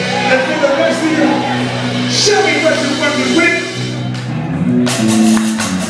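Live blues band playing through the PA: amplified instruments with some singing, and a run of sharp drum and cymbal hits near the end.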